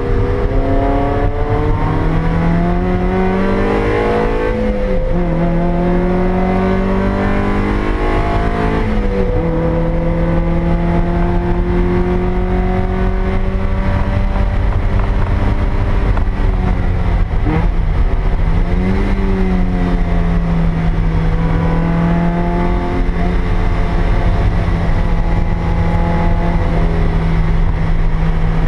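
Stock 1ZZ-FE 1.8-litre four-cylinder of a 2000 Toyota MR2 Spyder at full throttle on track, heard from inside the cabin. The revs climb and fall back twice in the first ten seconds as it shifts up, then hold fairly steady, dipping briefly and recovering about two-thirds of the way through. Steady tyre and road noise runs underneath.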